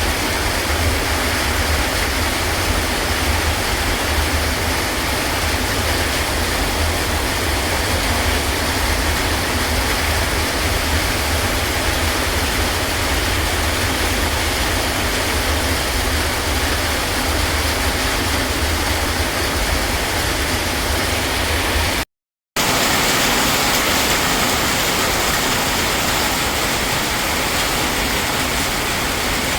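Heavy rain pouring down in a storm, a loud steady hiss with a low rumble under it. The sound cuts out for a moment about three-quarters of the way through, and after it the low rumble is gone while the rain hiss goes on.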